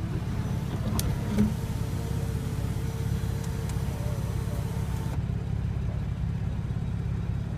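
2014 Porsche 911 Carrera 4S flat-six engine idling steadily, heard inside the cabin. Over it, the electric moonroof motor runs with a steady hum from just after a click about a second in, and stops suddenly about five seconds in.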